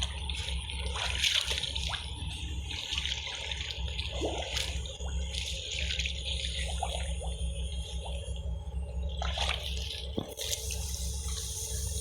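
Water splashing and sloshing irregularly as someone wades and sweeps through shallow water, over a steady low hum.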